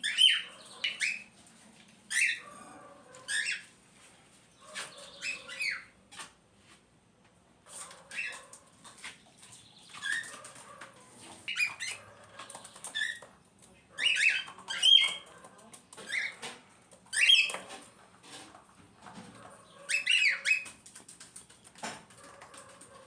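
Pet cockatiels calling, with short squawks and chirps repeated in clusters every second or two.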